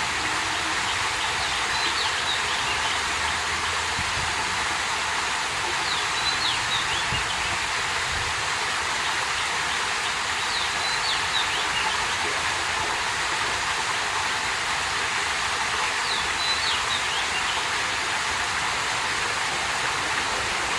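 Water flowing out of a small lake, a steady rushing. A brief cluster of high chirps comes about every four to five seconds.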